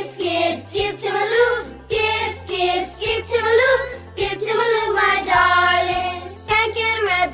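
Background children's song: a voice singing a simple melody over a synthesized accompaniment with a bass line that steps from note to note.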